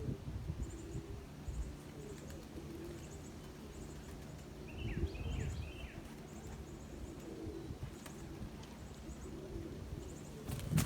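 Domestic pigeons cooing over and over, with small birds chirping high and faint in the background and a brief cluster of chirps about halfway through.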